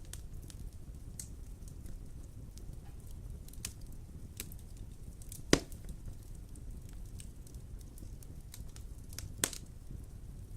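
Wood fire burning in a fireplace: a low steady rumble with scattered crackles, and two sharp pops, the louder one about halfway through and the other near the end.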